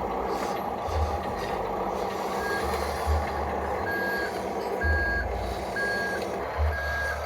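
Radio-controlled scale truck's electronic reversing beeper, a single-pitched beep repeating about once a second from about a third of the way in, over a low irregular rumble.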